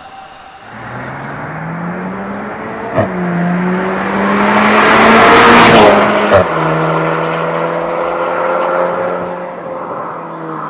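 VW Golf GTI Mk8's turbocharged EA888 evo4 four-cylinder through an MS-R valved catback exhaust, accelerating hard and getting louder up to a peak about five to six seconds in. There are two sharp cracks, about three and six and a half seconds in; after the second, the pitch drops to a steadier, lower drone as it changes gear, which fits the shift pops the exhaust is sold for. The drone fades near the end.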